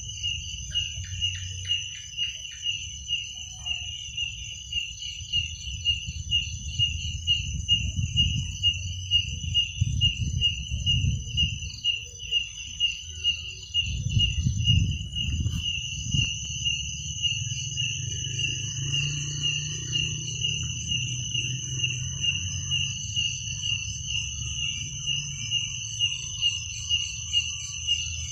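Crickets calling at night: one chirps in an even pulse, about three chirps every two seconds, over another insect's continuous high-pitched trill. A low rumble runs underneath.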